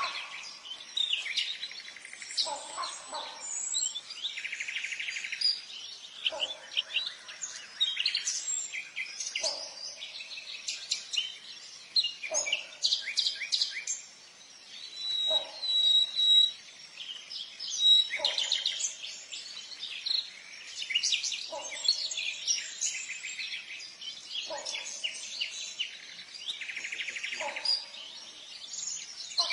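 Birds chirping and calling continuously, many quick high chirps overlapping, with a lower, short call repeating about every three seconds.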